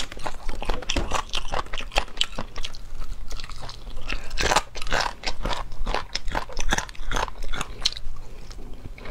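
Close-miked eating: a person biting and chewing pieces of braised food, with many irregular crunchy clicks and crackles.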